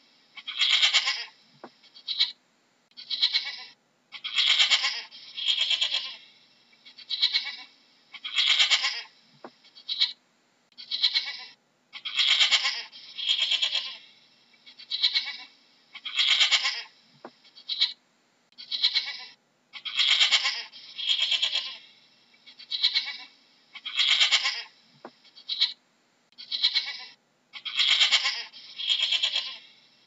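Domestic goat bleating over and over: short, high calls about one a second with brief pauses between them.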